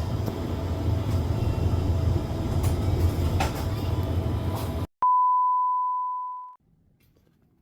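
Steady low rumble of a vehicle cabin in motion that cuts off abruptly about five seconds in. It is followed by a single clear, high chime tone that lasts about a second and a half and fades away.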